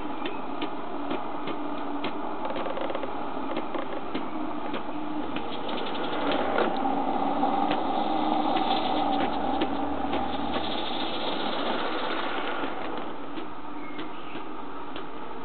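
Accucraft model locomotive running on its track, a steady mechanical clatter full of rapid clicks that grows louder in the middle and then eases.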